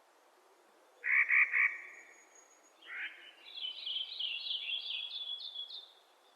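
Clark's nutcracker giving its harsh, grating call, about three rasping pulses about a second in, then a weaker harsh note. A rapid run of higher scratchy notes, about three a second, follows until near the end.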